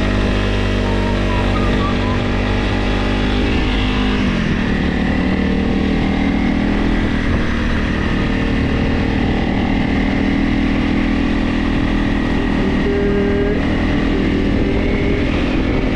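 Honda CRF Rally motorcycle engine running while riding, its pitch dropping about four seconds in as the revs fall, then holding steady.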